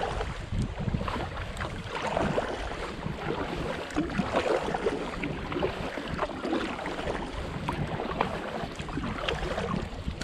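Wind buffeting the microphone over water lapping and splashing against a canoe on a lake, a steady rough noise with no let-up.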